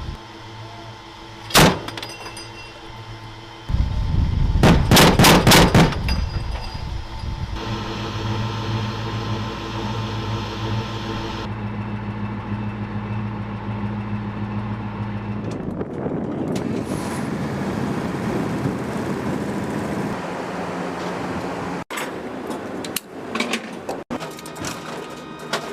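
M242 Bushmaster 25 mm chain gun firing a single round, then a short rapid burst of about five rounds a few seconds later, over the steady running of the armored vehicle's engine. Near the end, sharp metallic clicks and clanks.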